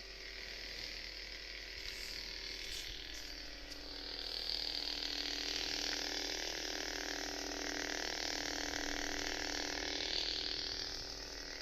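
Master Replicas ESB Darth Vader lightsaber's stock sound board playing its steady idle hum through the hilt speaker. The hum grows a little louder from about four seconds in.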